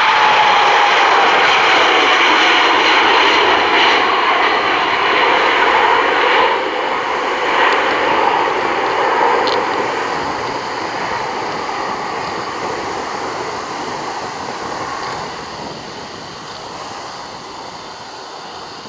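Jet engines of a heavy airliner at takeoff thrust: loud engine noise with a high whine that falls in pitch in the first couple of seconds, then fading steadily as the aircraft moves away.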